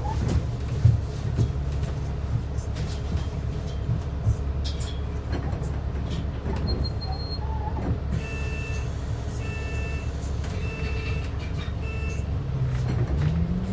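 Steady engine and road rumble heard inside a transit bus. In the second half, an electronic beep sounds about four times at an even pace. Near the end, a whine rises steadily in pitch as the bus picks up speed.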